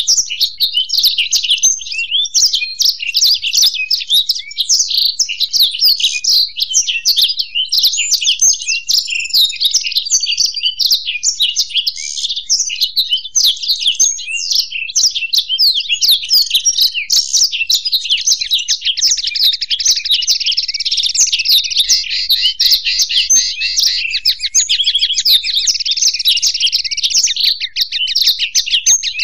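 Black-throated canary and European goldfinch singing together without a pause: a fast, unbroken run of high chirps and warbling phrases. From about 19 s to 27 s a rapid trill runs through the song.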